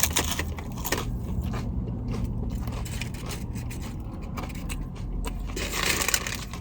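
A person biting and chewing food close to the microphone: crisp crunches and scrapes, with a denser crunching burst near the end, over a low steady hum.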